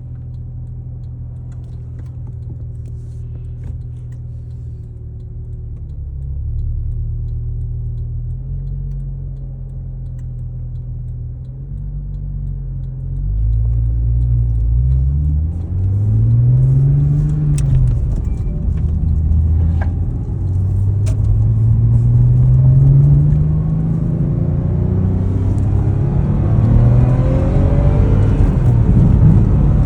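Porsche 996's water-cooled flat-six engine idling steadily, then, from about halfway through, its engine speed rising and falling several times as it is revved or driven, growing louder.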